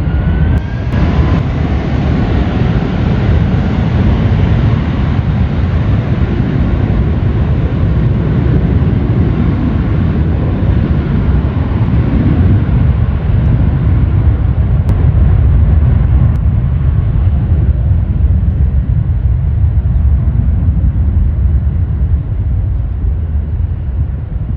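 Jet airliner engines at high power: a loud, deep rumble with a hiss over it. The hiss gradually thins over the second half as the aircraft moves away.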